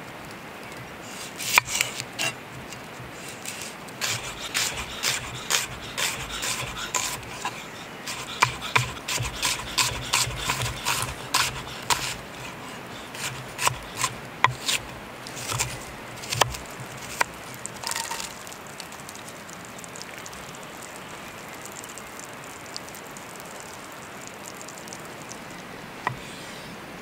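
Cooking utensils scraping and tapping, in an irregular run of short scrapes and sharp clicks that stops about eighteen seconds in, leaving a steady background hiss.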